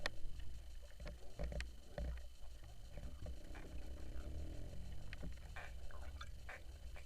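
BS Diver rubber diving fins squeaking and creaking as they flex, in short irregular squeaks over a low rumble.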